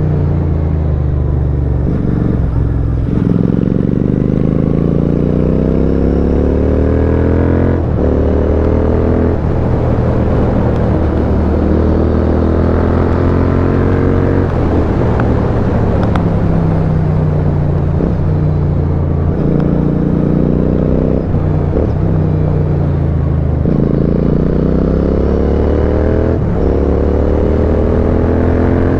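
Royal Enfield Continental GT 650's 648 cc parallel-twin engine through a custom aftermarket exhaust, heard on board while riding. It climbs in pitch through several gear changes, eases off and drops in pitch partway through, then accelerates again near the end.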